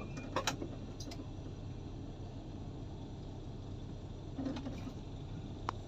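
Low, steady rumble of an idling bus engine, with a few sharp clicks: one about half a second in, one at about a second, and one near the end.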